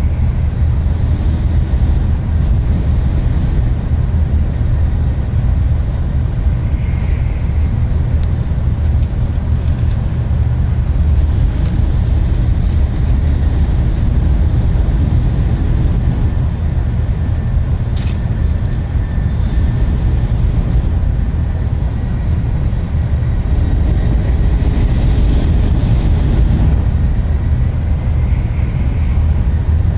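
Steady low running rumble of a Tokaido Shinkansen bullet train at speed, heard from inside the passenger car. A single sharp click comes about two-thirds of the way through.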